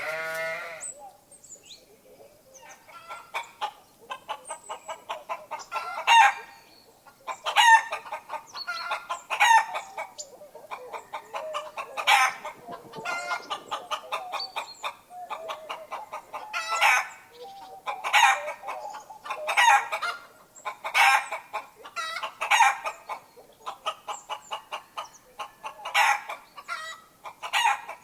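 Chickens clucking: dense runs of short, repeated calls, with a few louder calls standing out.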